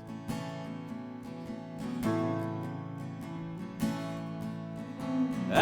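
Live country/Americana band music between vocal lines: acoustic guitar strumming a steady rhythm with sustained instrumental notes.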